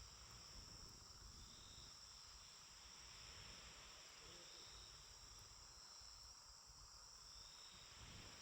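Faint, steady trilling of night insects such as crickets, with a fainter call repeating about every three seconds over a low rumble.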